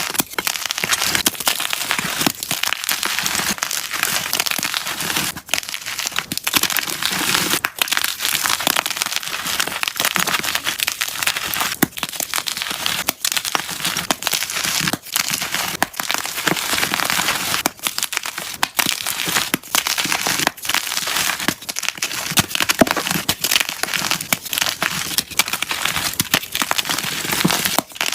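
Blocks of unpolished gym chalk being crushed: a dense, continuous crunching and crackling full of small sharp snaps, played back at double speed.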